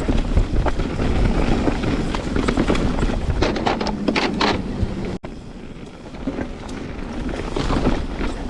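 Full-suspension mountain bike riding over a rough, rocky trail section: tyres rumbling over the ground with many clattering knocks from the bike, and wind on the mic. It drops off suddenly a little past halfway, then builds again.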